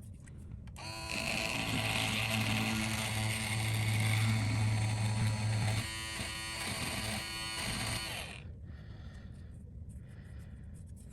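A small handheld electric glue-removal tool runs for about seven seconds with a steady hum and hiss, then stops, as it strips old adhesive off the phone screen.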